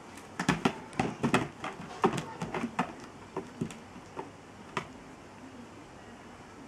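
A dog's paws and claws tapping and thudding on a hard floor as it moves through a trick: a quick, irregular run of taps and knocks that thins out and stops about five seconds in.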